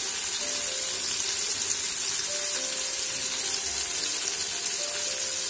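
Onion and chopped vegetables frying gently in oil in the open pot of an electric pressure cooker, a steady sizzling hiss as they sweat.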